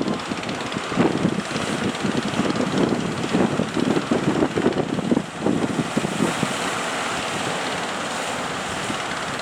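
Strong wind buffeting the microphone in irregular gusts over a steady rushing noise. The buffeting eases after about six seconds, leaving a more even rush.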